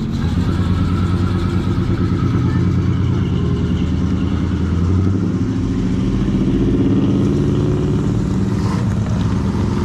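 Car engine running with a low, rumbly note that rises gradually in the second half as the car moves off.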